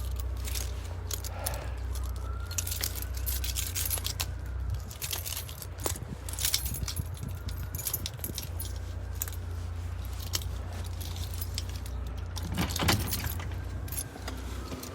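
A bunch of keys jangling and clinking in hand, with repeated sharp metallic clicks, as the keys are got out to unlock the door.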